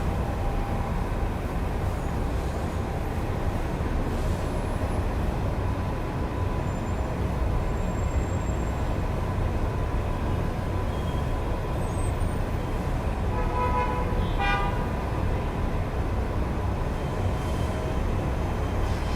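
Steady road-traffic noise of a city street heard through an open window, with one short car horn toot about two-thirds of the way through.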